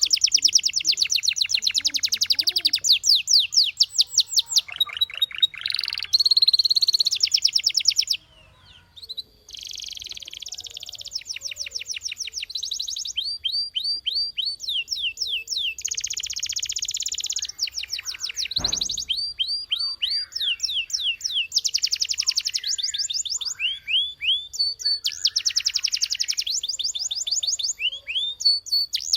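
Domestic canary singing: phrases of fast, rapidly repeated notes in rolling trills, with a short pause about eight seconds in.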